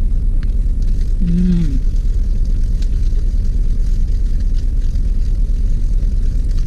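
Steady low rumble of a car engine idling, heard inside the cabin. A short closed-mouth hum from the person eating comes about a second and a half in.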